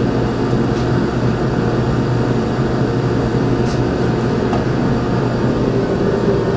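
Steady, loud mechanical drone with a low hum under it, like a running fan or blower. It stays level throughout, with a couple of faint ticks.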